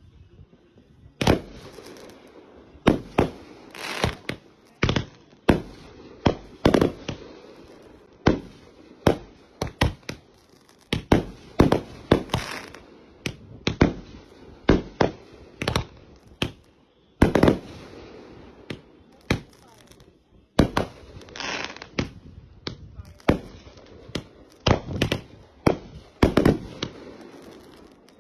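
Fireworks going off: a long, irregular series of sharp bangs, about one a second, some followed by a short crackle.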